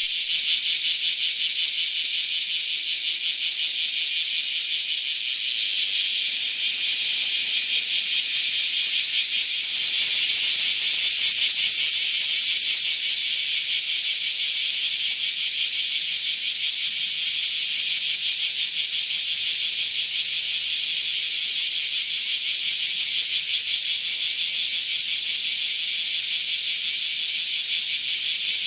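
Cicada calling: a continuous high buzz made of very rapid pulses, steady without a break.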